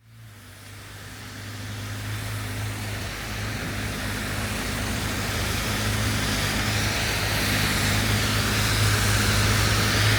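Rainy city street ambience: a steady hiss of rain and wet-road traffic with a low, steady engine hum underneath, fading in from silence over the first couple of seconds and growing slowly louder.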